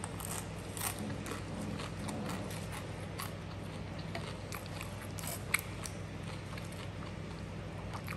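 Close-up chewing of crunchy keripik chips: scattered small crunches and mouth clicks, over a steady low hum.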